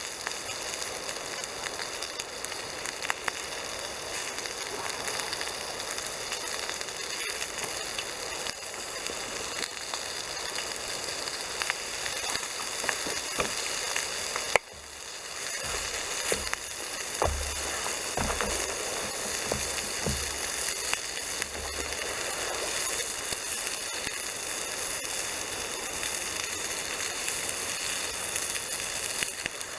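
Bacon and sausages sizzling in a frying pan over a crackling wood campfire, with scattered pops and clicks throughout. The sound dips abruptly about halfway through, and a few low knocks follow.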